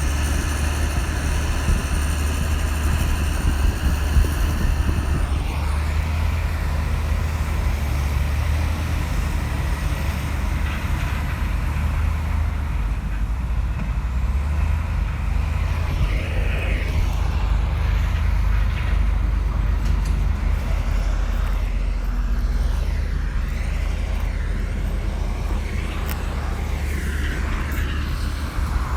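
Komatsu crawler bulldozer's diesel engine running steadily with a deep drone. A high whine rides over it and stops about five seconds in.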